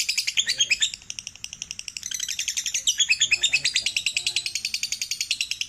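Lovebird ngekek: a long, fast chattering run of short, high, sharp chirps, many to the second, dipping quieter about a second in and coming back louder about three seconds in.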